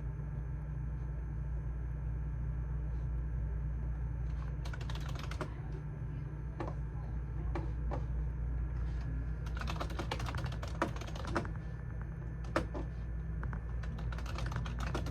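Computer keyboard typing in short bursts of rapid key clicks, with pauses between them, over a steady low hum.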